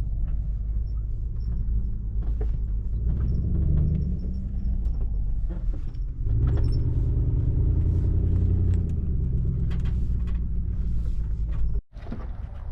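Car running with a steady low engine and road rumble and a humming drone that swells twice; it cuts off suddenly near the end.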